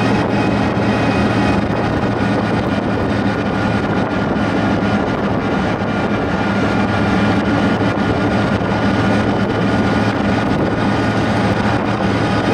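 Rat rod driving at a steady cruise: the engine runs at an even note under continuous wind and road noise.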